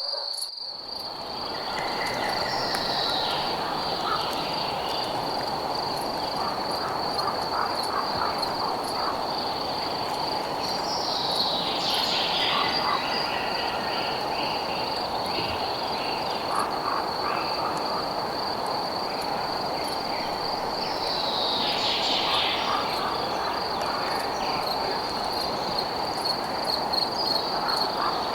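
Night insect-and-frog chorus: crickets trilling steadily at a high pitch, with scattered frog croaks over a steady low hiss. A falling call recurs about every nine seconds, and the sound briefly drops out right at the start.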